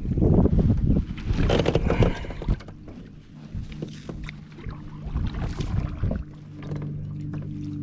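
Kayak on the water: rushing, sloshing noise and small knocks from water and gear against the hull, with a steady low hum that grows stronger in the last second or so.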